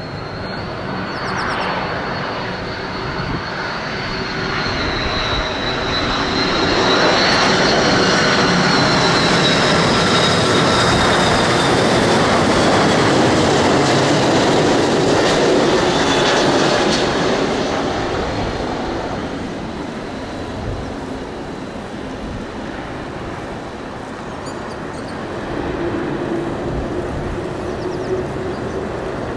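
Aircraft engines as a plane passes low by the runway. A high whine drifts slowly down in pitch over the engine noise, which builds to a peak lasting about ten seconds and then fades away.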